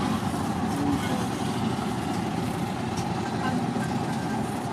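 Charcoal forge burning hard under a steady blast of air, a continuous rushing rumble with a faint crackle or two from the coals.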